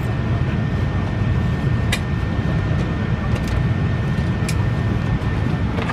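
Steady low rumble of a parked Airbus A380's cabin air-conditioning, with a faint steady high whine and a few light clicks.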